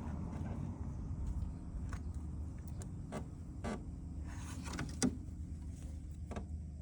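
A steady low mechanical hum with scattered light clicks and knocks, one a little louder about five seconds in.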